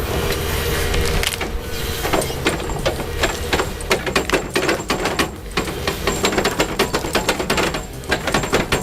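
A heavy machine's engine running under rapid, irregular clattering and knocking, which grows dense about two seconds in.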